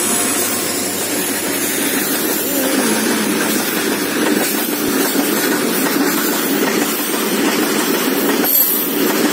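Freight train passing close by: the end of a diesel locomotive going by, then open-top steel goods wagons rolling past with a steady noise of wheels on rail.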